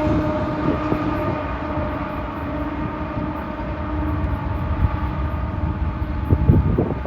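Freight train passing, its steel wheels rumbling steadily on the rails. A quick series of clacks comes near the end.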